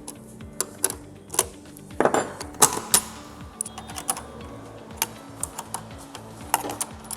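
Irregular sharp metallic clicks and clanks of hand tools on the exhaust silencer's bolts and casing as it is dismantled, with a busier burst about two to three seconds in, over steady background music.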